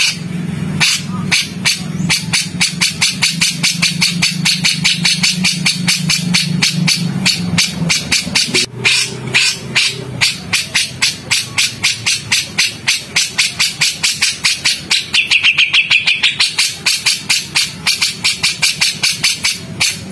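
Songbird giving rapid, harsh, repeated chattering notes, several a second, with a brief clearer whistled note about three-quarters of the way through. A low hum runs underneath for roughly the first half.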